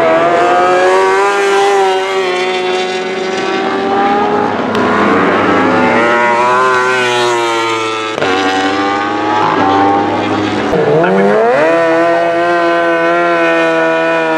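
Superbike engines running hard at high revs, several bikes overlapping, their pitch sliding up and down as they change gear. Near the end one engine's pitch dips, then climbs sharply and holds steady as it accelerates.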